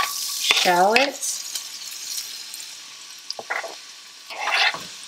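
Chopped shallots dropped into hot melted butter in a stainless skillet, sizzling loudly at first and dying down over a few seconds. Near the end come a few short scrapes.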